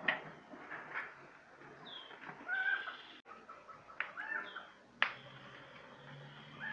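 Several short bird calls that swoop in pitch, and a few sharp knocks, the clearest about five seconds in.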